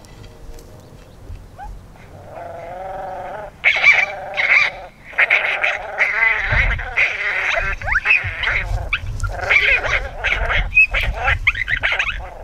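Coyote calls: a wavering whine about two seconds in, then a loud, dense run of overlapping yips and howls, with wind rumbling on the microphone.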